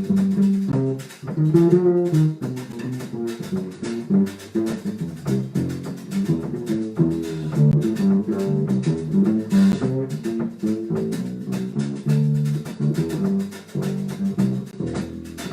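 A small acoustic jazz band playing live in a Brazilian style: quick plucked-string melody and chords over a walking bass line.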